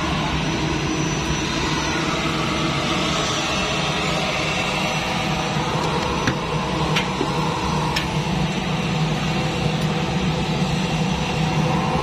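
L-410 Turbolet's Walter M601 turboprop engine running steadily during a ground run for engine adjustment, a constant heavy hum and rush. A few sharp clicks come around the middle.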